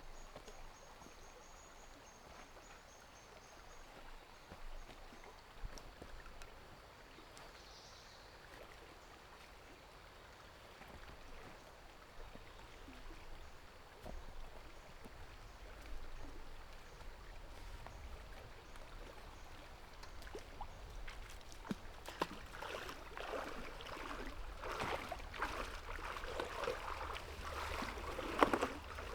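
Quiet forest ambience with a faint high, thin call in the first few seconds. About three-quarters of the way in, a close run of irregular splashing, trickling water sounds starts and grows louder.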